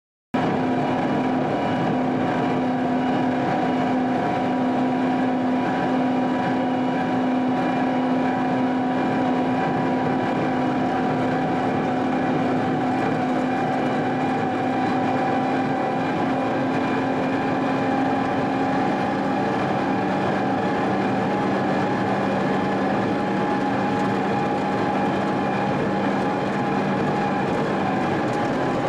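Heavy snow-plowing machine's diesel engine running steadily under load, a continuous drone with a lower hum taking over about two-thirds of the way through.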